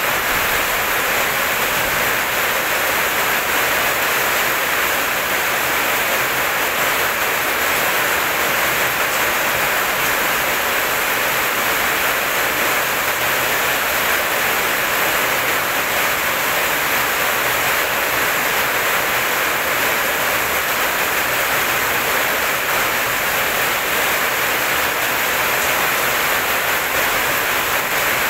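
Heavy rain falling steadily: a dense, even hiss with no breaks or claps of thunder.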